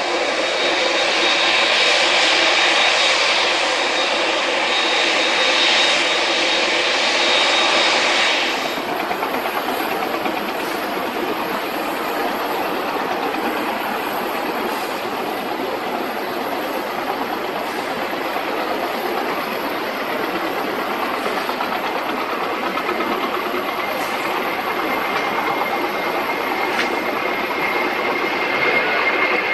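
Jet airliner engines: a loud jet rush with a high steady whine for about the first nine seconds, then an abrupt change to a steadier, duller rushing jet noise without the whine.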